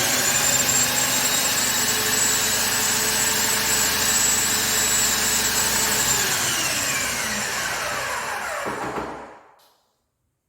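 Electric power tool motor switched on, whining up to speed, running steadily at full speed, then switched off and winding down in falling pitch for about three seconds until it stops.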